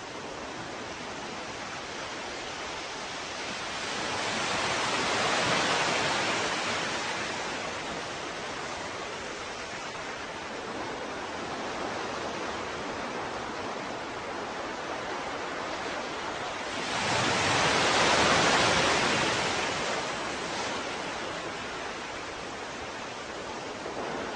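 Ocean waves washing on a shore: a steady wash with two waves swelling louder and fading, about five seconds in and again near eighteen seconds.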